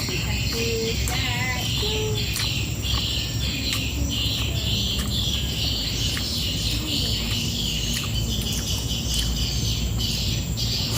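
Insects, likely crickets, chirping in a steady pulsing drone, with a few short bird chirps about a second in and faint scattered clicks over a low background rumble.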